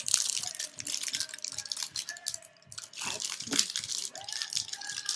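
Plastic snack wrapper crinkling and rustling as it is torn open at its notch, a steady crackle of small clicks.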